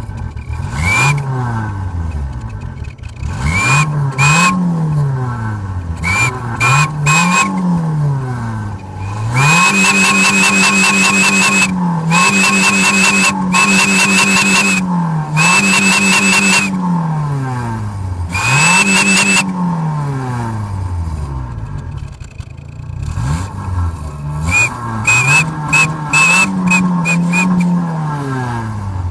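Renault Mégane Mk1 exhaust fitted with a whistle insert and cutout, the engine revved again and again in free revs. A high whistle rides over the exhaust note at high revs, and from about ten to twenty seconds in the revs are held up high several times, the whistle sounding steadily.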